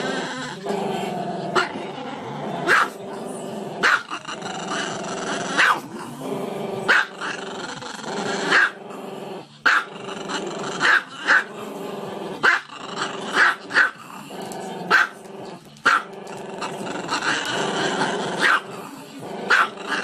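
Small dog barking sharply over and over, roughly once a second at an uneven pace, with a continuous growl between the barks.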